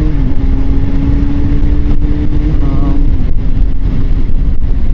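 A motor vehicle's engine runs at a steady drone over heavy low road and wind rumble. Its pitch dips slightly just after the start and again about three seconds in.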